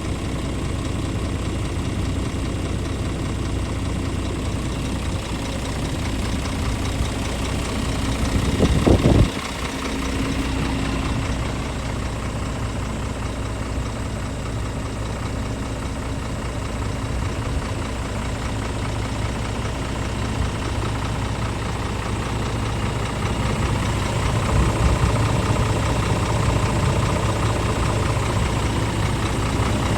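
Scania R450 truck's diesel engine idling steadily, with one brief louder burst about nine seconds in that stops abruptly.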